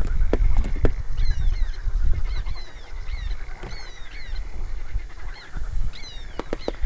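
A bird calling over and over, short falling notes about once a second, over a low rumble, with a few sharp knocks near the start and again near the end.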